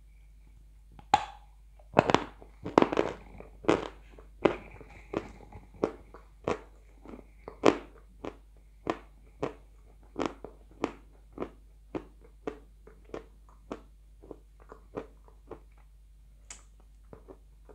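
A person biting into and chewing edible chalk spread with Uzbek blue clay paste, with loud crisp crunches at first, then steadier, softer crunching at about two chews a second.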